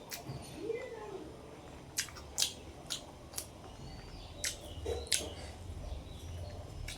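A person chewing food close to the microphone: a series of sharp, crisp mouth clicks and smacks, about seven, spaced irregularly a second or less apart.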